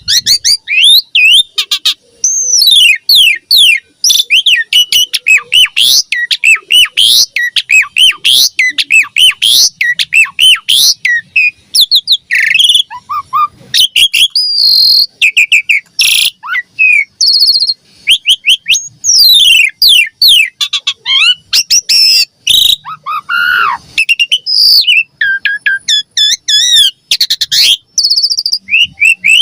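Asian pied starling (jalak suren) singing a long, dense song of rapid whistled sweeps, chattering notes and clicks, one phrase after another with scarcely a break.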